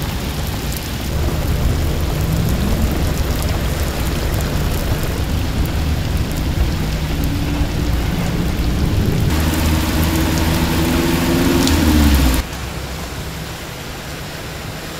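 Heavy rain pouring on a flooded street while cars drive through the water, with a low engine hum underneath. An engine grows louder toward the end, then the sound cuts abruptly to a quieter rush of water splashing from tyres.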